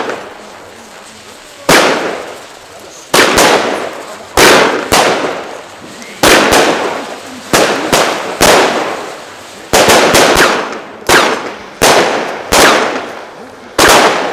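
Lesli Showbrick firework batteries firing in a chain: a quiet gap of under two seconds, then a string of about twenty sharp bangs of bursting shells, one every half second to a second, each with a fading echo.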